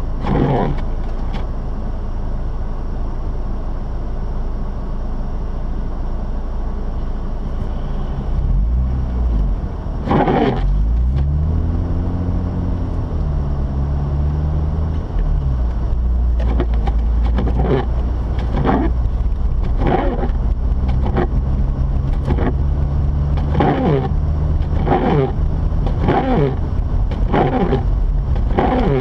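A Mazda RX-8's twin-rotor Wankel rotary engine running while the car is driven, heard as a steady low hum. Its pitch rises and falls about ten seconds in as the car speeds up and shifts. From about halfway through there is a run of short repeated sounds about a second apart.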